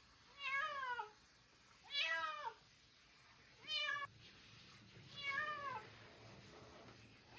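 Domestic cat meowing four times, about a second and a half apart, each call rising then falling in pitch.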